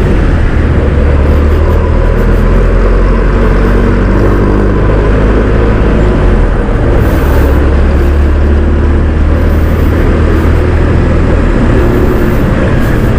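Honda ADV 160 scooter under way, its single-cylinder engine running steadily beneath a loud, even rumble of wind and road noise.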